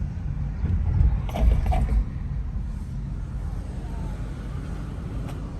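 Steady low rumble of a car driving, with a short louder creaking noise about a second and a half in.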